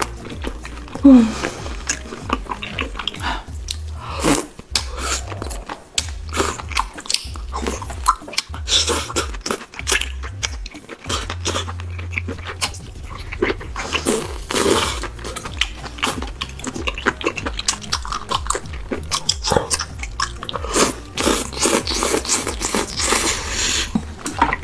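A person biting and chewing food, beef rib meat and kimchi, with wet, crunchy mouth sounds in many quick, irregular clicks. There is one loud bite about a second in.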